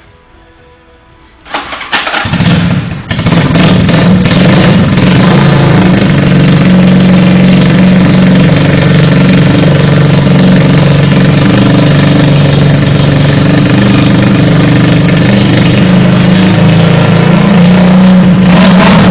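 Custom 200 motorcycle with an open, unmuffled exhaust starting about a second and a half in, sputtering unevenly for a moment, then catching and running loud and steady.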